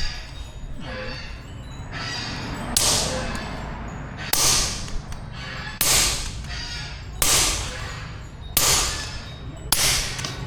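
Hand hammer blows on metal in a blacksmith's forging, six of them at an even pace about one and a half seconds apart, starting about three seconds in, over a steady low hum.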